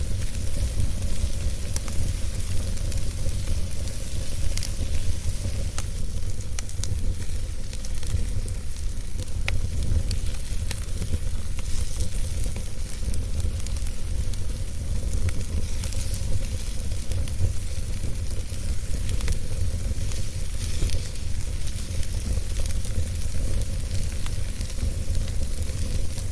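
Wood fire burning in a fireplace: a steady low rumble with a hiss and irregular small crackles and pops from the burning logs.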